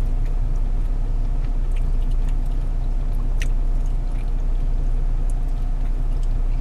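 Steady low rumble of a car's cabin with the engine running, with faint clicks of someone chewing a mouthful of food.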